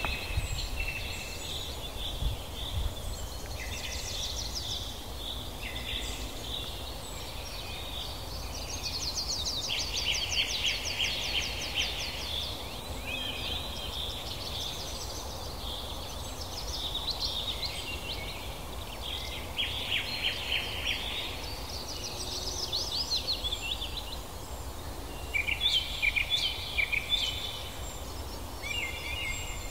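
Several birds chirping and calling over a steady low rumble. Fast, rattling trills come in about ten seconds in and again around twenty seconds, and a burst of louder chirps follows near the end.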